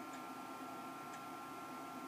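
A clock ticking faintly, once a second, over a faint steady high ring, just as a low tone cuts off.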